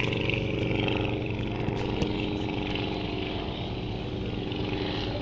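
Rollason Turbulent light aircraft's Volkswagen-derived flat-four engine droning steadily as the aircraft flies a low pass, easing off a little in the middle.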